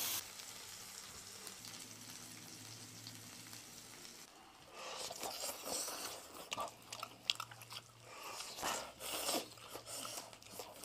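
Faint sizzling from the iron griddle for about four seconds, then, after a brief gap, people biting into and chewing griddle-fried lamb skewers in irregular small snaps and clicks.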